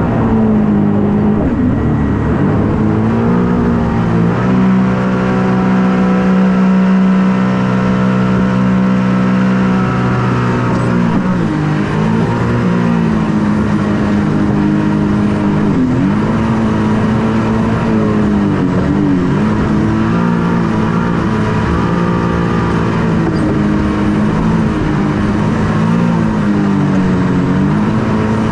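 The Hydro Attack shark boat's engine runs loud and holds a steady pitch for the first several seconds. After that its pitch repeatedly dips and climbs as the throttle is worked.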